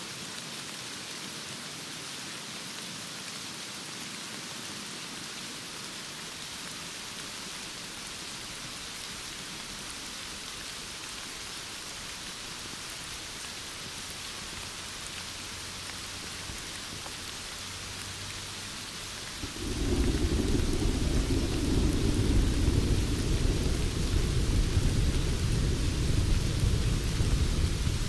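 Heavy rain falling in a steady hiss. About twenty seconds in, a loud, deep rumble of thunder sets in suddenly and keeps rolling over the rain.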